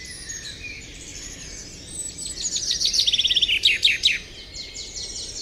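Several songbirds chirping and singing at once, with a dense stretch of rapid, repeated trills around the middle that is the loudest part.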